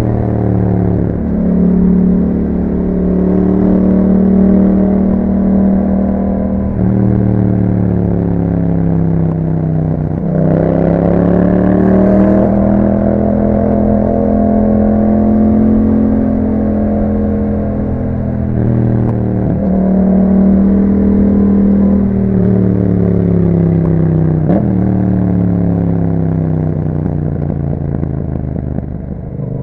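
Yamaha MT-07's 689 cc parallel-twin engine through an Akrapovic exhaust, ridden with the revs rising and falling through gear changes and throttle changes. The pitch dips sharply four times, at about one second in, about ten seconds in, just before twenty seconds and near twenty-five seconds.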